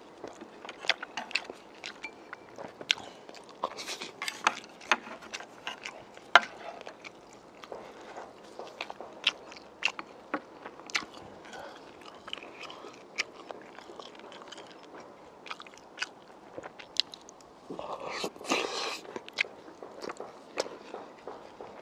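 Close-up mouth sounds of a person eating spicy braised pork ribs and rice: irregular wet smacks and clicks of chewing. A louder breathy rush comes about three-quarters of the way through.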